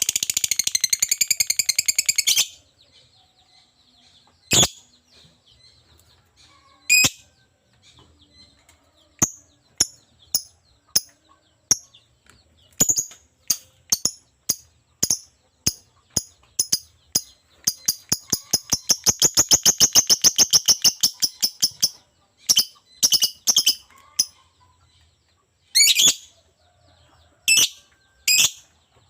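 Lovebird in full song: a fast rattling trill of rapidly repeated high notes at the start and a longer one in the middle, with sharp single chirps scattered between.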